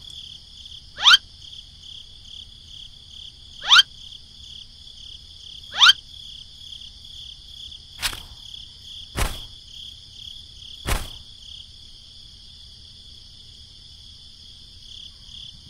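Steady pulsing chirring of crickets throughout. Within the first six seconds come three short whistles, each rising quickly in pitch. Later come three sharp knocks about a second apart.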